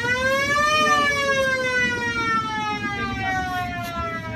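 A river boat's siren winding up to a peak about a second in, then slowly falling in pitch, over a low rumble.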